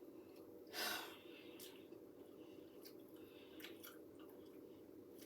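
Faint chewing of a piece of homemade coconut candy, with one louder, short noisy rustle about a second in and small wet clicks, over a faint steady hum.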